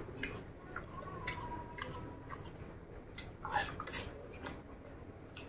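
Close-up eating sounds: small wet mouth clicks and smacks while chewing a hand-fed mouthful of rice and raw leaves, with a louder cluster of clicks about three and a half seconds in. A thin steady tone is heard for about a second, starting about a second in.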